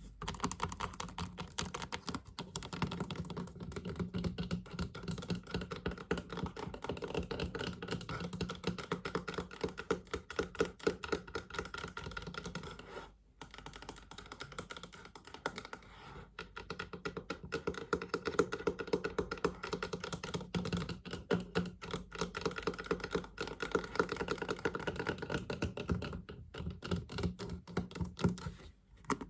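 Fast, continuous tapping on a hollow chest, a dense patter of small taps, with a brief pause about halfway through.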